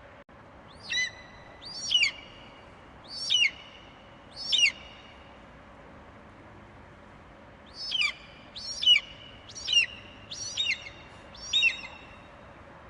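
Eagle screeching in a run of short, high calls that each fall sharply in pitch. Four calls come about a second apart, then after a pause of about three seconds a quicker run of about five more, over a faint steady hiss.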